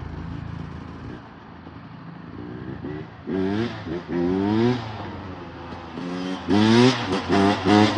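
Small dirt bike engine running low, then revving in a series of rising pitch climbs that get louder and come in quicker succession from about six and a half seconds in.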